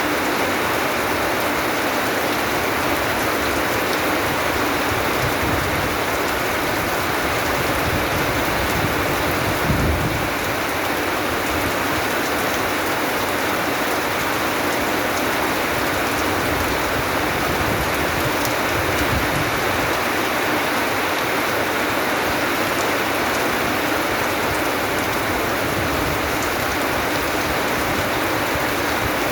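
Steady rain falling, an even hiss, with a few low rumbles underneath, the strongest about ten seconds in.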